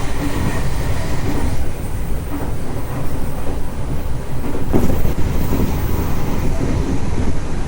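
Tokyo Metro 03 series train running at speed, heard from inside the car: a steady rumble of wheels on rails with a few knocks over rail joints, the sharpest about five seconds in.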